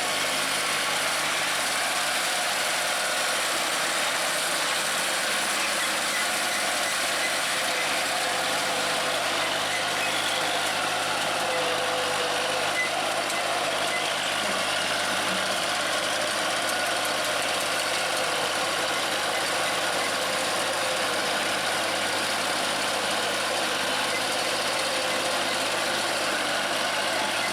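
New Holland tractor's diesel engine running steadily, with a constant drone that does not rise or fall.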